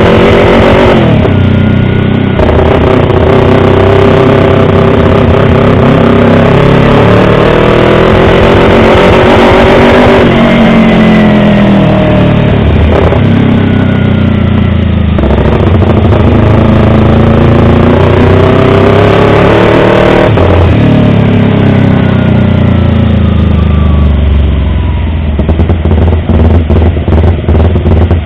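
Yamaha R25's 250 cc parallel-twin engine running hard. Its pitch climbs slowly and drops sharply several times, like upshifts under acceleration. It then falls away and settles into a low, uneven pulsing near the end.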